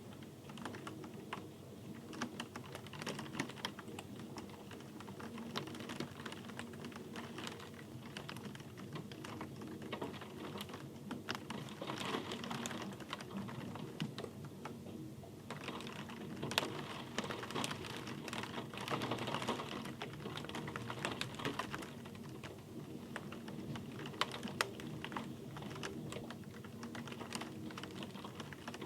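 Rain falling steadily, with dense irregular drop impacts ticking over an even hiss.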